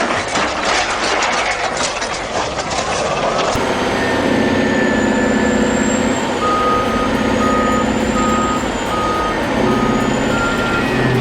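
Clattering, noisy heavy machinery for the first few seconds, then a hard cut to a large earthmoving machine's diesel engine running steadily. About six seconds in, a reversing alarm starts beeping about twice a second, with a higher-pitched beep near the end.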